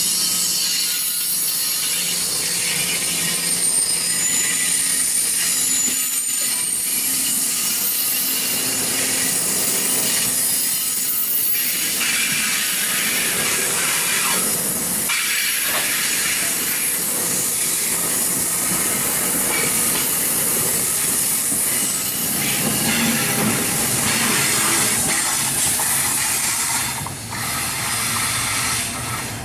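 A train of NJ Transit single-level passenger coaches rolling past on the station track, with a steady hiss of wheels on rail and traces of wheel squeal. Near the end the sound drops briefly, then comes back as another train is heard approaching.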